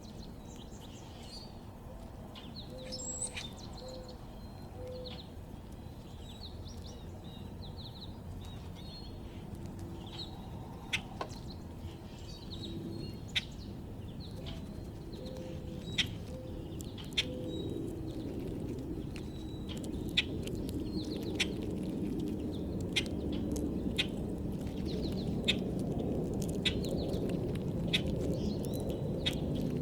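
Small songbirds chirping and calling in a backyard, short high notes scattered throughout. From about ten seconds in, sharp ticks come roughly every second and a half, and a low outdoor rumble grows louder toward the end.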